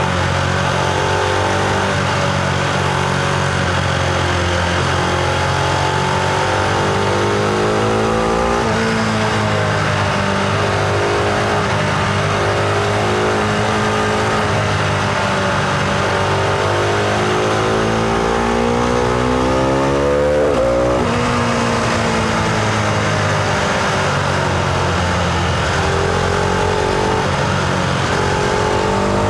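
Husqvarna Vitpilen 701's single-cylinder engine running under way, its note rising and falling with the throttle. A long climb in pitch ends about two-thirds in with a sudden drop, an upshift, and the note climbs again near the end.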